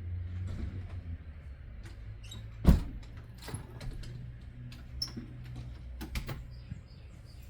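Scattered sharp clicks and knocks over a low steady hum, with one loud knock about a third of the way through.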